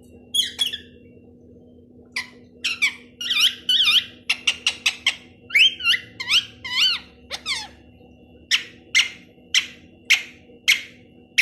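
Pet parrot calling: a run of sharp squawks and chirps that swoop up and down in pitch, then a steady series of harsh calls about two a second near the end. A faint steady hum lies underneath.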